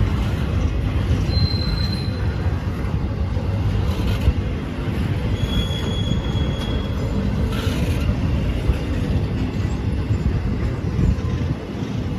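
Train rolling past with a heavy rumble, its wheels squealing briefly in thin high tones twice, about a second in and again around the middle, with a couple of short clanks.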